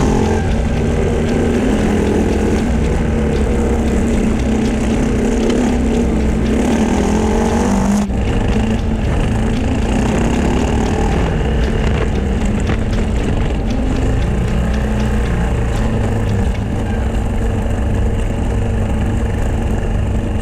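Motorcycle engine running under way with heavy wind noise, its pitch rising and falling with the throttle.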